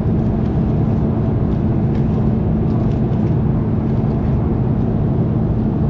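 Steady drone of an airliner's jet engines and rushing air heard inside the cabin, with a constant low hum.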